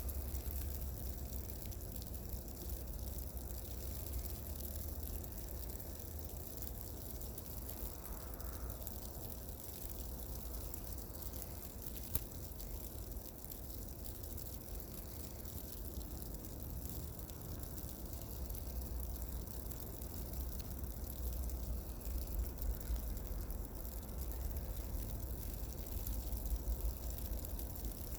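Steady road noise from inside a car driving on snow-covered roads: a low rumble with an even hiss of tyres on snow and slush, and a single click about twelve seconds in.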